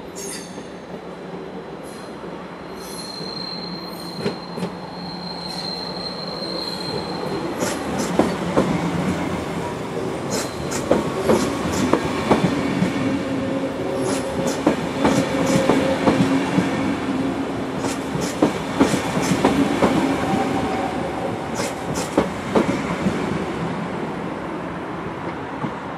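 SBB double-deck S-Bahn train rolling past over the station tracks, its wheels clattering over rail joints and points. A high wheel squeal comes in the first few seconds. The sound grows louder as the train draws alongside and fades as it moves away.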